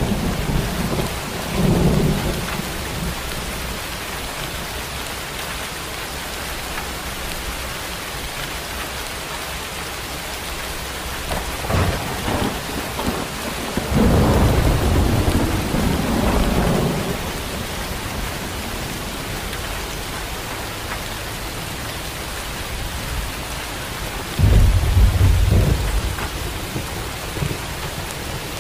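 Steady rain falling, with low rolls of thunder: one at the start, a longer roll about halfway through and a short one near the end.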